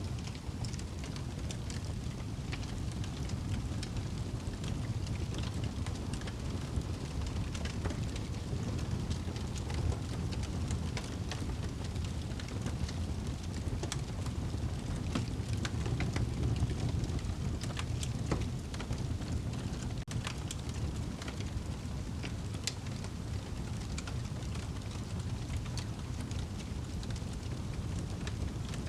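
Fire crackling in a fireplace: a steady low rumble of flames with frequent sharp, irregular pops and snaps.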